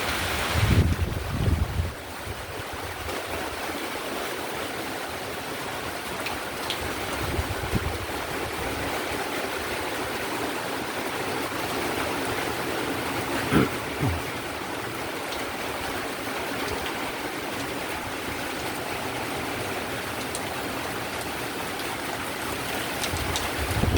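Heavy rain falling in a steady hiss during a windy storm, with a few short low rumbles, the loudest about a second in and again near the middle.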